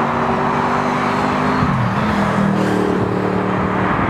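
Car engine running at a steady note over road noise; its pitch drops about a second and a half in, then holds steady at a lower note.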